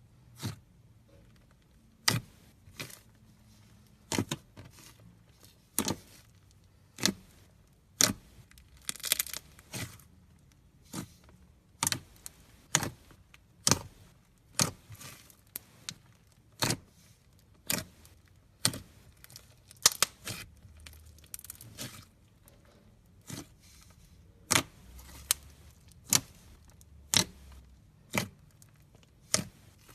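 Styrofoam-bead slime (floam) being squeezed and pressed by hand, giving sharp crunchy pops about once a second with short bursts of crackling between.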